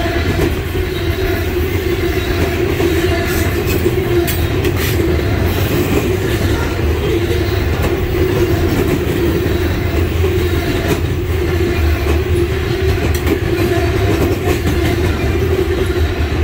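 Loaded coal hopper cars of a freight train rolling past close by: a loud, steady rumble of steel wheels on rail, with a few faint clicks.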